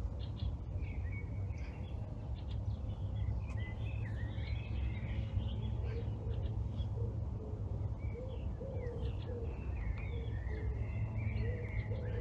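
Several small birds chirping and singing in short phrases, over a steady low rumble.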